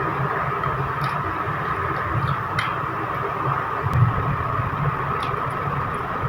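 Eating sounds: a few faint short clicks of mouth and utensils over a steady background hum.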